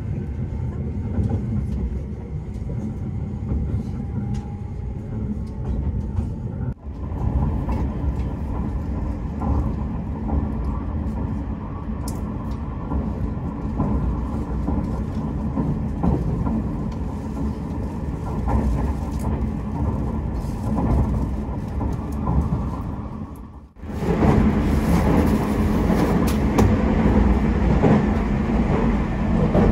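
Tobu Spacia X express train running at speed, heard from inside the car: a steady low rumble with wheel and rail noise. The sound breaks off briefly twice and is louder and hissier over the last several seconds.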